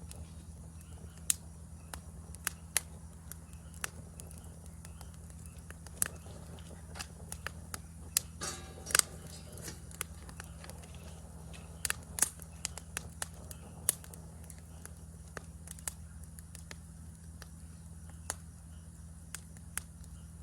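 Wood campfire crackling: irregular sharp pops and snaps, with a quick run of crackles about halfway through, over a steady low background hum.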